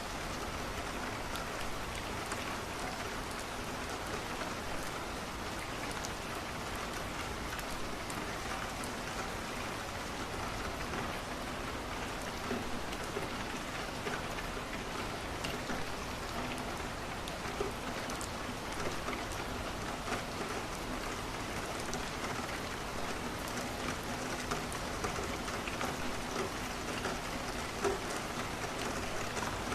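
Steady rain falling against a window, with scattered small clicks and crackles from a wood fire, a few of them a little louder in the second half.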